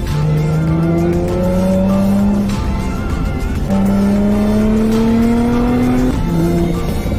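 Infiniti G35's Vortech-supercharged 3.5-litre V6, breathing through aftermarket headers, test pipes and a Motordyne TDX2 exhaust, accelerating hard through the gears. The engine note climbs steadily, drops at an upshift about two and a half seconds in, climbs again and drops at another shift near six seconds.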